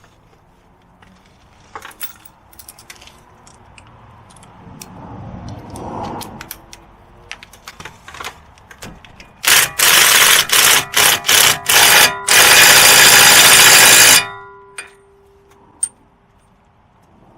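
Impact wrench hammering a bolt or nut down. It runs in several short bursts and then one longer run of about two seconds, with lighter clicks of handling before it.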